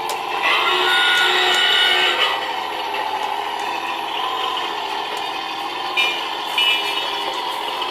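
G-scale model locomotive's sound unit: a steady diesel engine hum, with a chord horn sounding about half a second in for nearly two seconds, then a few short toots near the end.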